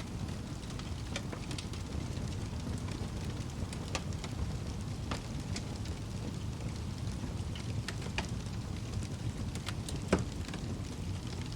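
Wood fire burning in a fireplace: a steady low rumble of the flames with scattered crackles and pops from the burning logs, one sharper pop near the end.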